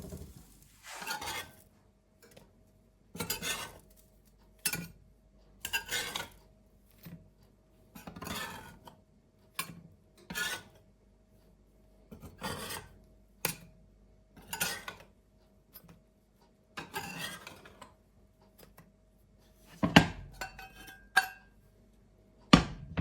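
Repeated short rasping scrapes of kitchen work, one every second or two, with two sharper knocks near the end.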